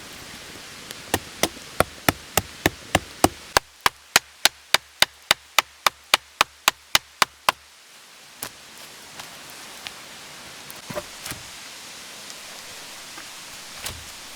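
Steady hammering: about twenty sharp knocks at roughly three a second, stopping about halfway through, then a few scattered single knocks.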